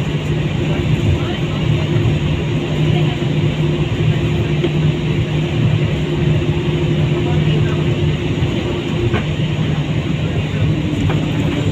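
Steady airliner cabin noise after landing: the engines and air system running with an even rush and a low steady hum. One hum tone drops out about nine seconds in and a slightly lower one comes in near the end.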